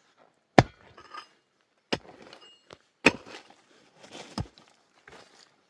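Heavy blows of a hand tool, four in a steady rhythm about one every second and a quarter, with light clinking and clattering between the strokes.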